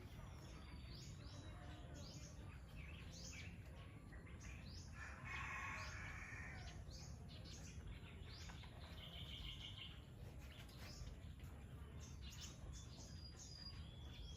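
Small birds chirping faintly, short quick downward-sweeping calls repeating throughout, with a brief rasping call about five seconds in and a short rapid trill around nine seconds. A low steady rumble lies underneath.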